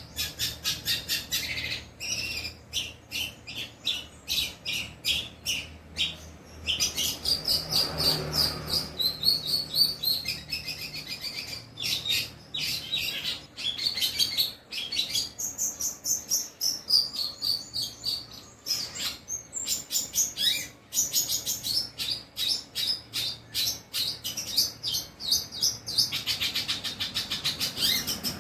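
Long-tailed shrike (cendet) singing a fast, continuous run of high chirps and short whistled phrases, a chattering song that mimics other birds' calls such as sparrow chirps.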